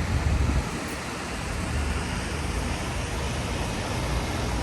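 Steady hiss of rain and wet-street traffic with a low rumble, a little louder in the first half second.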